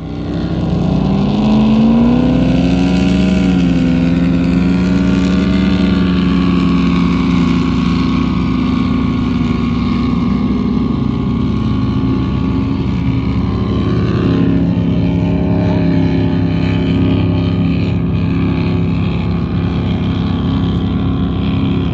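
A speedboat's V8 engine revs up, rising in pitch over the first couple of seconds, then runs loud at a steady pitch.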